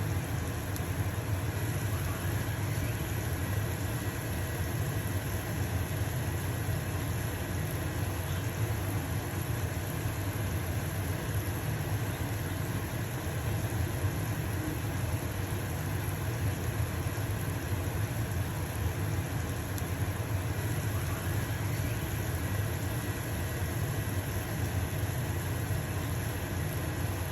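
A pancake sizzling in a frying pan under the steady low hum of a stove-top exhaust fan.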